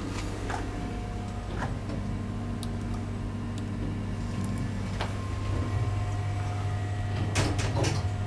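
1989 MacGregor Navire traction elevator running: a steady low hum with a few scattered clicks, then a quick run of clicks and knocks near the end like its sliding doors working.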